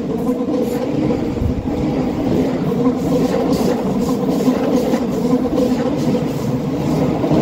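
A train running at a steady pace, with a constant hum and rumble.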